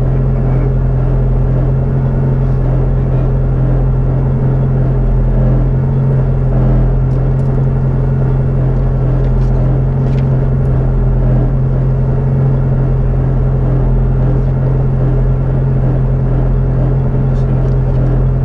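Ford Ka RC5 rally car's engine idling steadily, heard from inside the cabin.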